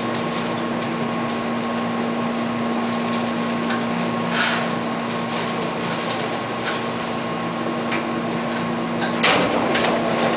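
Steady hum inside a Hankyu electric train as it moves off from a station, with a couple of sharp clacks from the wheels on the track, the loudest near the end.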